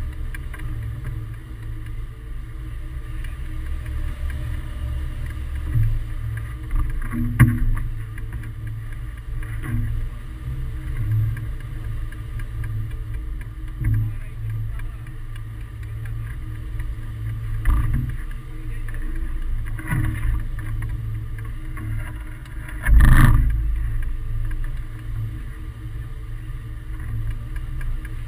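Wind buffeting the microphone of a hang glider in flight: a steady low rush that swells and eases in gusts, with a few short thumps, the loudest about 23 seconds in.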